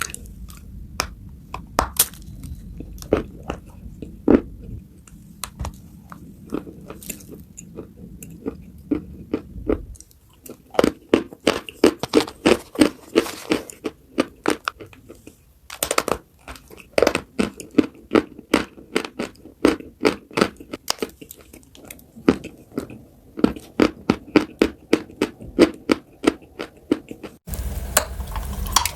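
Close-up chewing of crunchy food: quick runs of crisp crunches, several a second. The background changes abruptly a few times where one clip cuts to the next.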